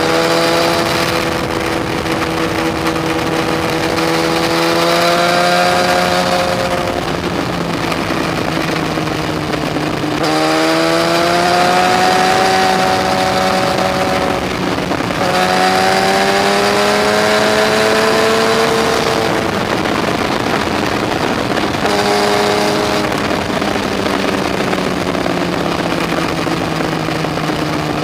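Yamaha FZ1's inline-four engine pulling hard on a mountain road, its pitch climbing in each gear and dropping at shifts about ten and fifteen seconds in, over steady wind rush.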